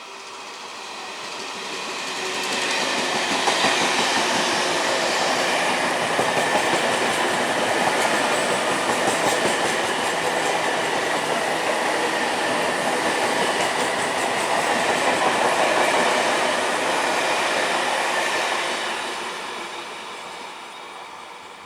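A train passing at speed close by, its wheels running over the rails; it builds up over about three seconds, runs steady and loud for about fifteen, then fades away.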